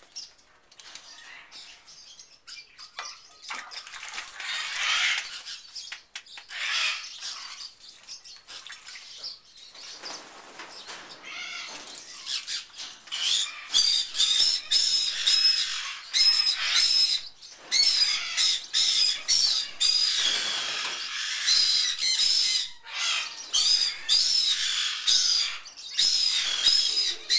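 Channel-billed toucan splashing and flapping in a shallow water bowl as it bathes, then, from about halfway in, a bird's high chirping calls repeated rapidly and loudly over and over.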